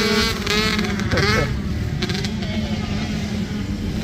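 Motocross dirt bike engines running hard at a steady high pitch during a race, with a brief shout from a spectator in the first second or so.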